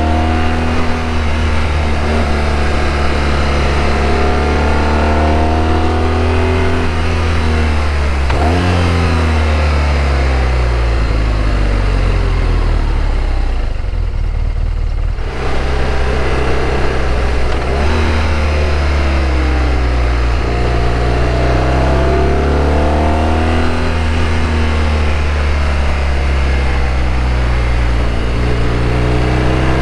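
BMW R1200RT's flat-twin boxer engine running under way, its pitch climbing and falling with the throttle several times, with quick pitch drops about eight seconds in and near eighteen seconds, and a brief dip when the throttle closes around the middle. Wind and road noise run under it.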